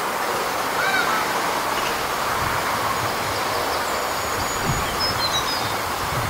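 A few faint bird calls, honk-like, over a steady rushing background noise.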